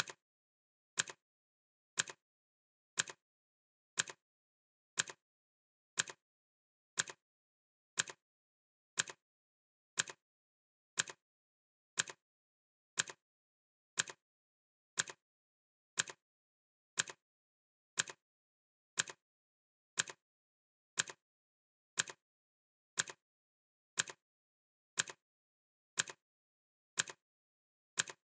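Clock ticking, one sharp tick each second with silence in between.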